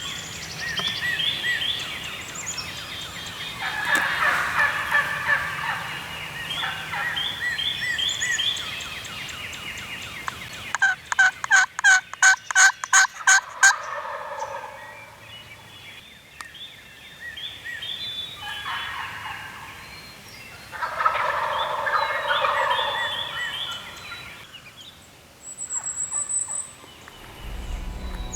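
Wild turkey toms gobbling again and again, the rattling gobbles coming in bursts and overlapping. Around the middle there is a run of about eight short, evenly spaced loud notes, and a small songbird chirps once near the end.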